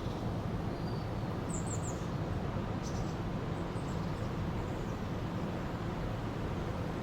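Steady rush of a flowing river, with a few short high bird chirps about a second and a half in and again near three seconds.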